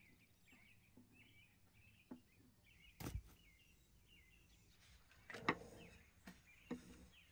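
Faint bird chirping, short repeated calls, with a few soft knocks about three seconds in, at five and a half seconds (the loudest) and near the end.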